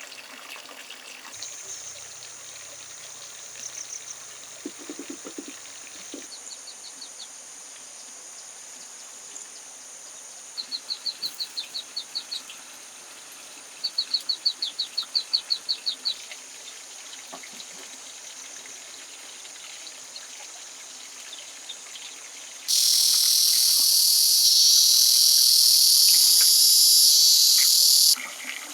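Rainforest insects buzz steadily, with two runs of rapid, even high chirps in the middle. Near the end a much louder, shrill insect drone, like a cicada's, starts suddenly and cuts off about five seconds later.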